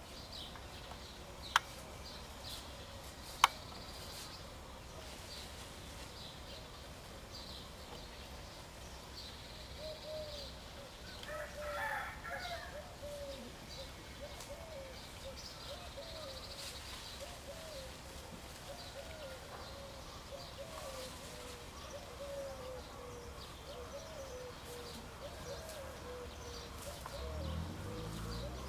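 Birds calling: scattered high chirps and a long run of short, low, repeated calls, with two sharp clicks a couple of seconds apart near the start and a low rumble near the end.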